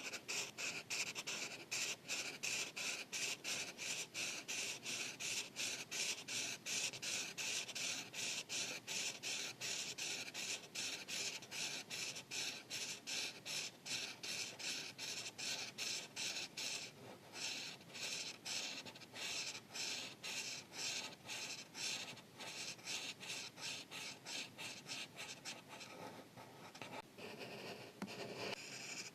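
Marker tip rubbing on paper in quick, repeated back-and-forth coloring strokes, about three or four a second, with brief pauses about seventeen seconds in and again near the end.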